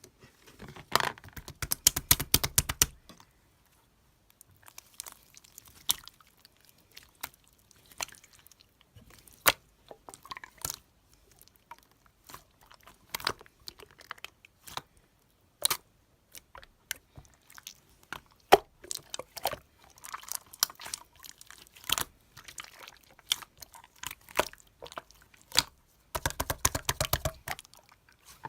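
Hands squishing and pressing slime: scattered sticky pops and clicks throughout, with two spells of rapid crackling, one about a second in and one near the end.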